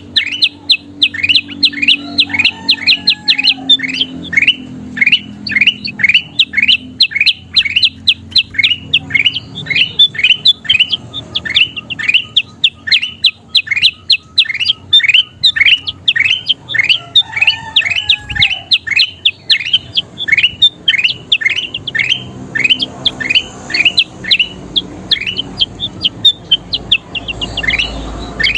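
Kutilang emas, a bulbul, calling without pause: a fast run of short, sharp rising notes, about three or four a second, loud and even.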